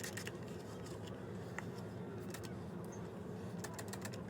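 A steady low background hum with a few faint, short clicks scattered through it.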